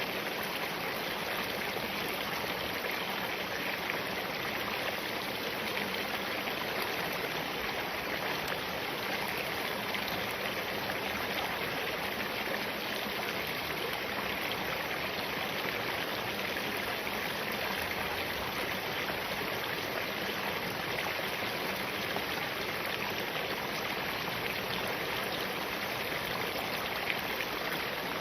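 Spring-fed mountain stream flowing over rocks, a steady even rush of water.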